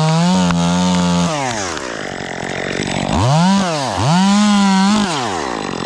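Two-stroke chainsaw running at high revs, then dropping off and being revved up and back down twice.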